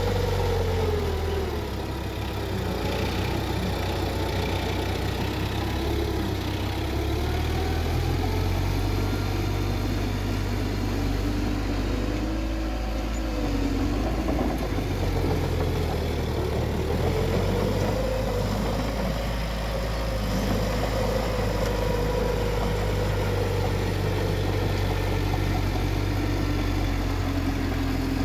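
Bulldozer's diesel engine running under work, a steady low drone with a pitch that slowly rises and falls as the revs change.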